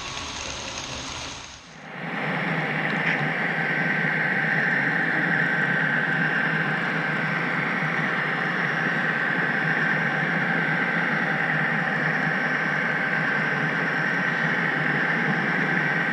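HO-scale model train running on its track, a steady rolling hiss with a thin high whine, starting about two seconds in after a different sound cuts off.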